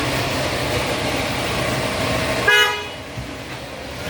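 A vehicle horn toots once, briefly, about two and a half seconds in, over a steady low hum of engine and traffic noise.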